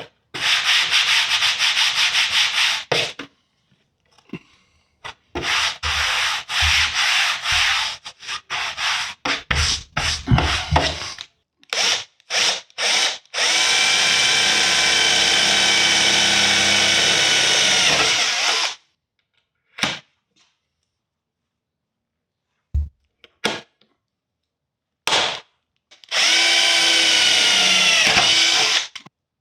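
Spray gun applying contact adhesive in repeated bursts of hiss, some short and sputtering, two long and steady, with a whistling tone that bends down as each long burst ends.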